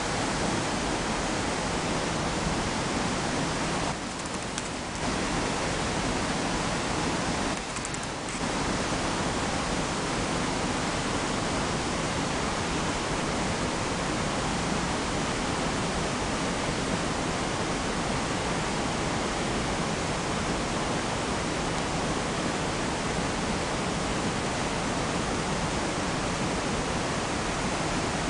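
Waterfall: a steady rush of falling water, its level dipping briefly twice early on.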